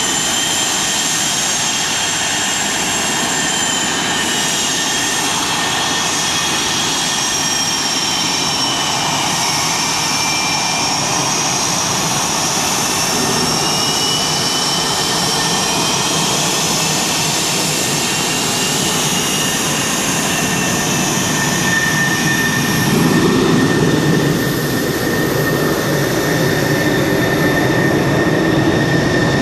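Military jet engines running, a steady rush with high whines that slowly rise and fall in pitch; the noise swells briefly a little over twenty seconds in.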